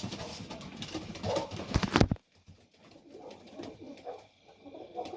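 Domestic pigeons cooing in a loft, as soft wavering low calls. For about the first two seconds there are dense clicks and rustling, which stop abruptly.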